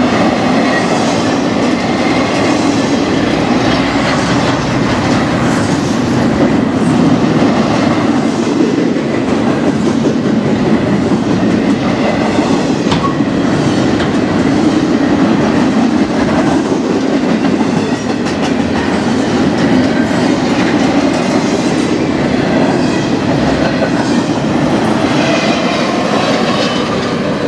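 Double-stack container well cars of an intermodal freight train rolling past: a loud, steady rolling noise of steel wheels on rail.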